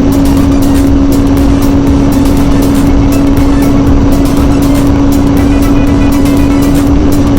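Kawasaki ZZR600 inline-four engine running at steady high revs at highway speed, its note holding one constant pitch under heavy wind noise.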